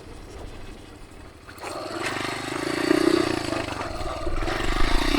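Dirt bike engine running low, then opening up about a second and a half in as the bike accelerates hard in first gear, staying strong after that.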